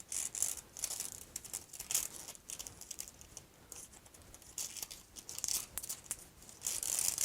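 Paper and ribbon rustling and crinkling in irregular bursts as hands tie a ribbon knot on a seed-coated paper tube.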